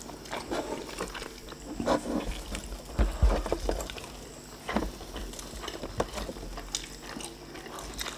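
Close-miked chewing and mouth sounds of people eating soft lempeng flatbread dipped in sambal, with scattered small clicks and smacks. There is a low thump about three seconds in.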